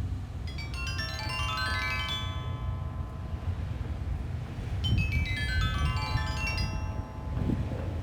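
Sanukite stone lithophone, tuned to 432 Hz, played in two quick descending pentatonic runs, each note ringing on, about half a second in and again about five seconds in. Underneath runs a steady low rumble of wind on the beach.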